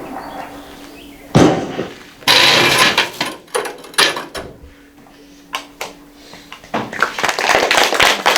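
A loud thud and a few scattered knocks, then an audience starting to clap near the end, the applause building quickly.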